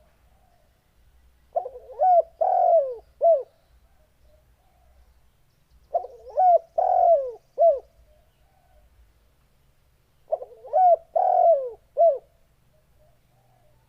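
Spotted dove (tekukur) cooing: three call phrases about four seconds apart, each a quick run of short notes followed by a longer coo that falls away at the end.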